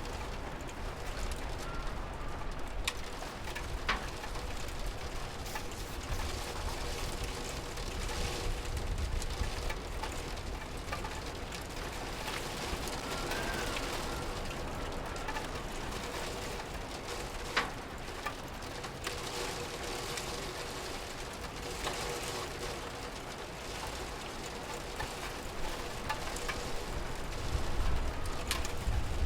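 Steady rain falling, with scattered sharp drip ticks. A low rumble swells near the end.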